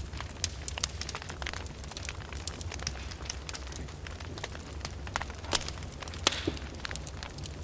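Wood fire in a fireplace crackling, with frequent sharp pops and snaps of varying loudness over a steady low rumble.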